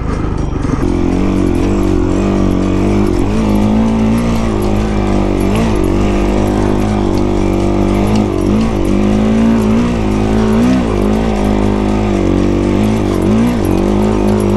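Honda CRF450 single-cylinder four-stroke dirt bike engine running under way at a fairly steady pitch. Several brief dips and recoveries in pitch come as the throttle is rolled off and back on.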